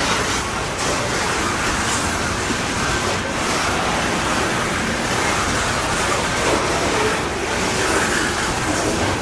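Canadian Pacific coal train rolling past: a steady rushing noise of steel wheels on the rails, even in level throughout.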